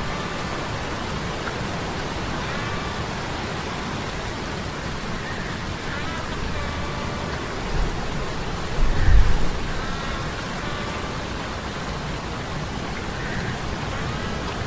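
Ambient mix of sea storm sound effects and humming metal gears: a steady rain-like rush of storm noise, with faint short gliding metallic tones recurring every second or two. A deep low rumble swells about eight seconds in and peaks around nine seconds, the loudest moment.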